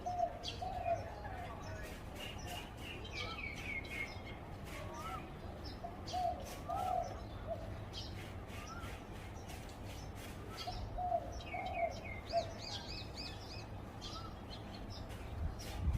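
Zebra dove cooing: three short phrases of soft rolling coos, a few seconds apart, with smaller birds chirping at a higher pitch between them.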